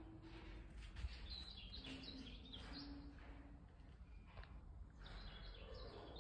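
Faint outdoor ambience: small birds chirping now and then over a low rumble, with one soft knock about a second in.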